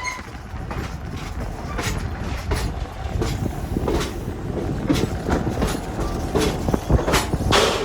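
Passenger railcar rolling along the track, heard from on board: a steady rumble of wheels on rail with irregular clicks and knocks, the loudest near the end.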